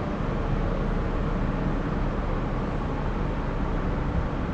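Steady background noise of a city street: an even hiss with a faint low hum.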